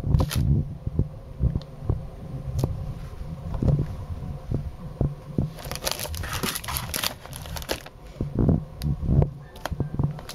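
Handling noise from toys and packaging being moved about close to the microphone: irregular bumps and knocks, with a burst of crinkling plastic about six seconds in.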